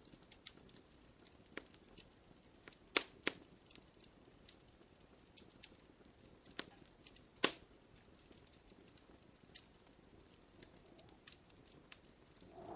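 Wood fire in a fireplace crackling, with scattered sharp pops, a few louder cracks about three seconds in and again past seven seconds, and a faint whistling tone building near the end.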